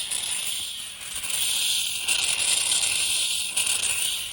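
Steam hissing steadily out of a Mamod SE1 toy steam engine's open cylinder, with the piston removed and the boiler still under pressure. The hiss dips briefly about a second in.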